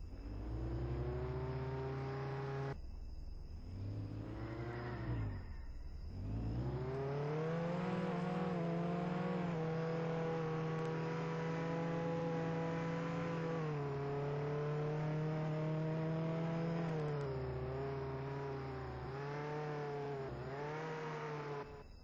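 Car engine revving: the pitch climbs, holds high for several seconds, drops and climbs again, and ends in a few short blips of the throttle.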